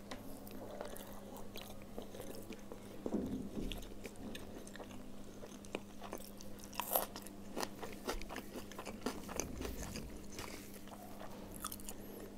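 Close-miked eating: a person chewing a handful of khichuri (soft rice and lentils), with many short wet mouth clicks and smacks. A faint steady hum lies underneath.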